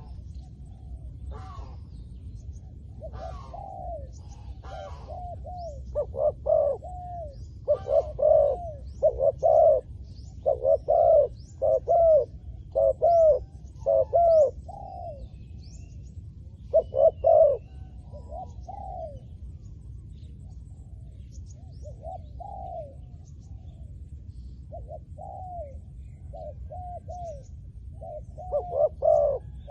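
Spotted dove cooing: short phrases of rounded coo notes repeated in clusters with pauses between them. Faint chirps of small birds come in between the coos.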